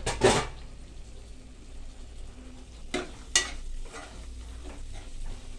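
Chopped tomato and masala frying in oil in a pressure cooker while a steel spoon stirs it: a sizzle under scraping, with sharp clinks of the spoon against the pot just after the start and twice at about three seconds.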